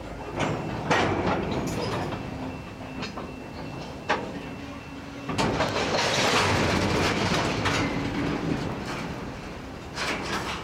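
Diesel freight locomotives moving on the rails: a steady engine drone with wheel-on-rail rumble and squeal, sharp clanks about one and about four seconds in, and the rolling noise swelling loudest from about five and a half to nine seconds in.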